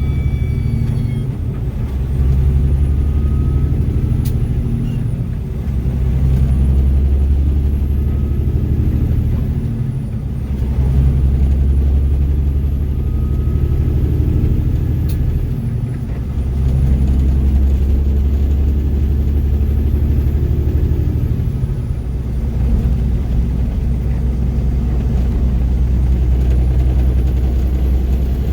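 Mack truck's diesel engine pulling through the gears: the engine note and a faint high whine climb through each gear and drop back at each shift, about every five seconds, then run steadier after four shifts.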